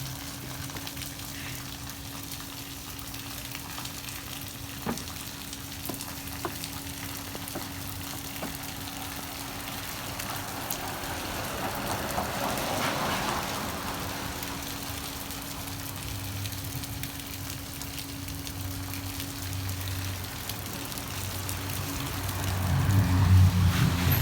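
Steady rain falling, an even hiss with a few scattered drops, over a steady low hum. A low rumble builds near the end.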